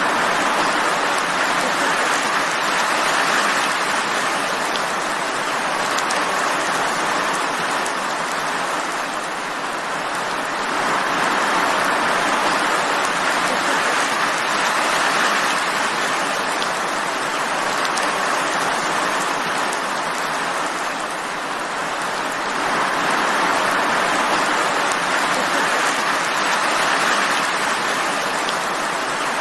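Steady rainfall, an even hiss that swells a little and eases again every ten seconds or so.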